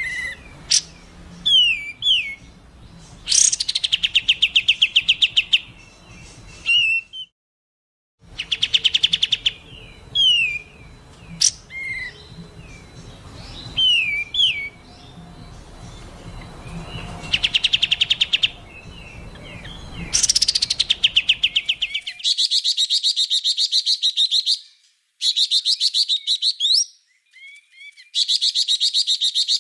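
Songbird song recorded for use as masteran (tutor song): rapid, harsh trills of many quick notes mixed with short downward-slurred whistles. It cuts out for about a second near the quarter mark, and from about three quarters of the way in the background goes quiet and the song turns to repeated trill bursts a couple of seconds long with short pauses between.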